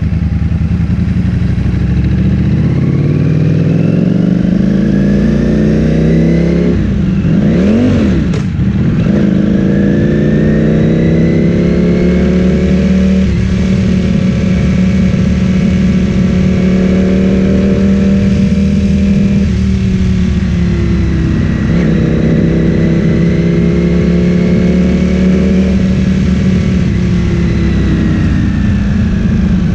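Ducati Streetfighter V4S's 1103 cc V4 engine through an Akrapovic full-system exhaust, being ridden: it pulls up through the revs at first, dips sharply and comes back about eight seconds in, runs steady for a while, then eases off and picks up again.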